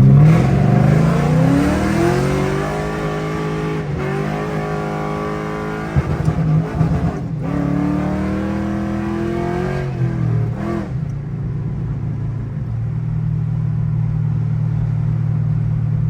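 Ford Crown Victoria's 4.6-litre V8 revved twice, its pitch climbing and falling, then settling to a steady idle about ten seconds in. The exhaust runs without leak noise now that the leaks are repaired.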